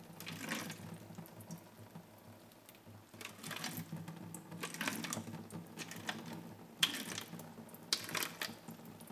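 Tap water being poured onto sprouting-medium pellets in a plastic seed-starting tray: irregular trickling and splashing with small clicks and knocks from the plastic, over a low steady hum.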